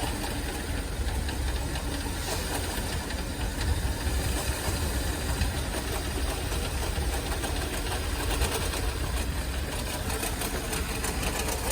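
Nissan Teana engine running steadily with an abnormal noise, a fast, even rattling tick.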